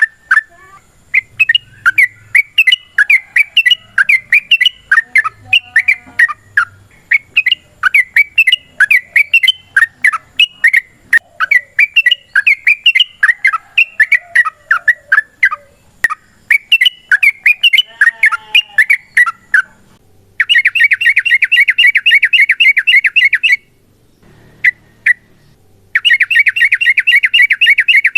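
Yellow-vented bulbul (trucukan) song: bubbly, rapid chirping phrases. About two-thirds of the way in, these give way to long, fast rattling trills (the "ropel") in two runs of about three seconds each, with a short pause between.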